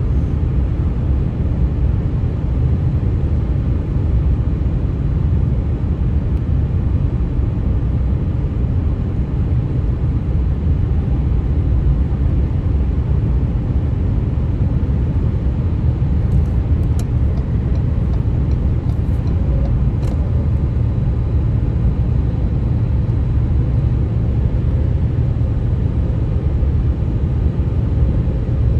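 Steady tyre-and-road noise of a car driving along a highway, a constant low rumble, with a few faint clicks a little past the middle.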